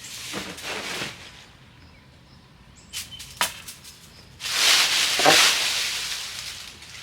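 Dry fallen leaves rustling and crackling in bursts: a short rustle at the start, two sharp snaps, then a longer, louder rustle.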